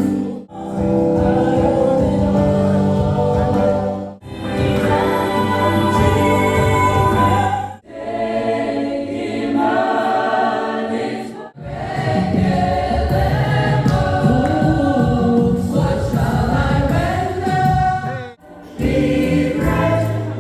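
Gospel choir singing, broken by several brief gaps every few seconds.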